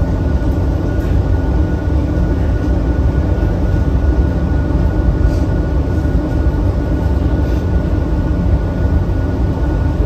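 Commuter train running, heard from inside the passenger carriage: a steady low rumble with a thin, constant whine over it.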